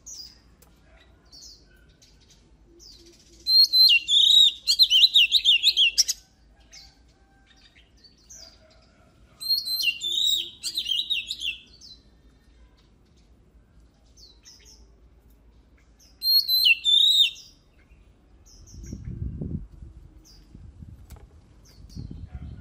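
Oriental magpie-robin singing: three loud bursts of rapid, warbled phrases several seconds apart, with soft single chirps in between. A low rumbling noise comes in near the end.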